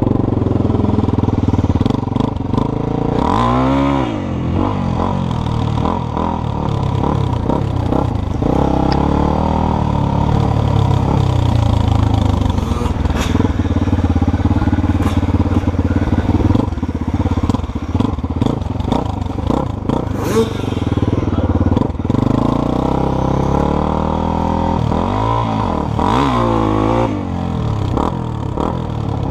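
Dirt bike engine running as the bike is ridden on a trail, its revs rising and falling several times, with a few sharp knocks along the way.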